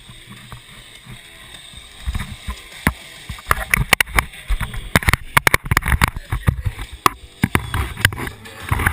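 Irregular knocks and clatters with low rumbling on a kayak-mounted action camera, starting about two seconds in and coming several times a second: gear or hands bumping the kayak and its camera mount.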